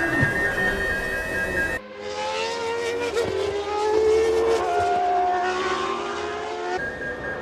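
A 1998 Formula One car's 3.0-litre V10 engine at high revs, its pitch rising and falling for about five seconds, cut in abruptly between stretches of background music.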